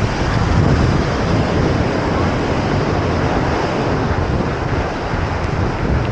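Wind rumbling on the microphone over a steady wash of ocean surf.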